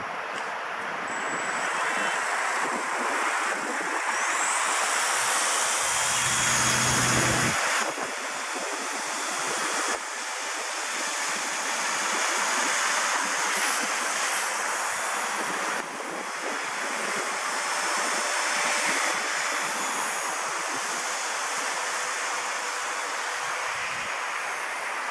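Gusty wind buffeting the microphone, with the high electric whine of a Walkera V120D02 micro RC helicopter over it; the whine rises in pitch about four seconds in and wavers now and then as the helicopter is flown.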